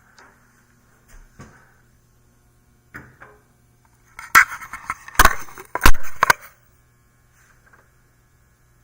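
Handling noise: a quick cluster of knocks, clacks and rattles, loudest around five to six seconds in, over a faint steady hum.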